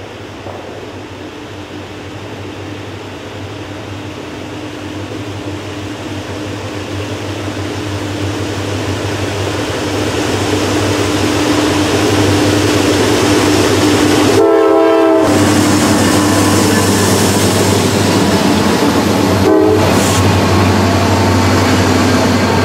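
Norfolk Southern freight train approaching and passing: the diesel locomotives' engines make a steady low drone that grows louder over the first half and then stays loud as the units go by. A short horn blast sounds about two-thirds of the way through, with a briefer one a few seconds later.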